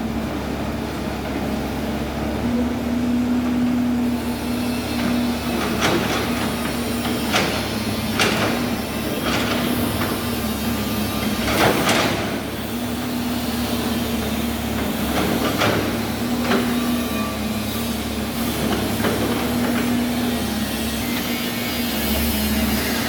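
Excavator engine running steadily under load, with a series of sharp clanks and knocks as stone and dirt strike the steel bucket and truck bed, the loudest a little before halfway.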